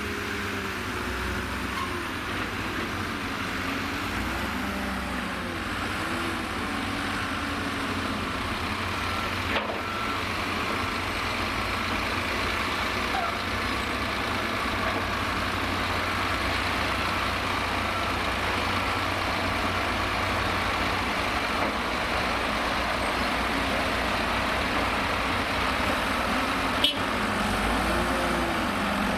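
Diesel engines of a Liebherr L534 wheel loader and a tipper truck working, the engine note swelling up and down several times as the loader revs through its loading cycles. A faint repeated beep runs through the middle, and there are two short knocks.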